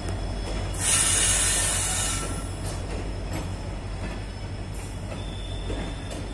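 Passenger train coaches rolling past on steel rails with a steady low rumble. About a second in, a loud high-pitched wheel squeal rises and fades over the next second or so. A few faint clicks of wheels over rail joints follow.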